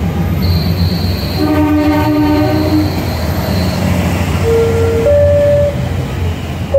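Taiwan Railway DR2800 diesel multiple unit running into the station with a steady low engine rumble, its horn sounding for about a second and a half starting a little over a second in.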